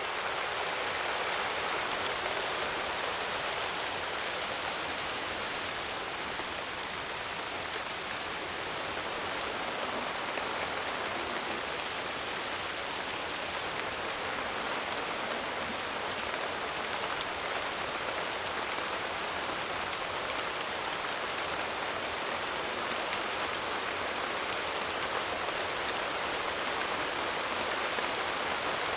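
Steady rainfall, an even hiss of rain with no breaks or changes.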